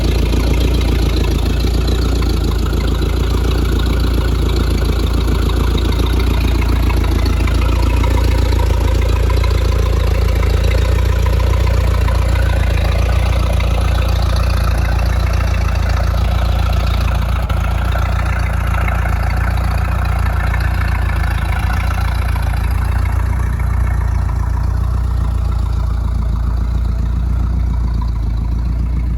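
A vehicle engine running steadily under a constant deep rumble, with an even rush of noise over it.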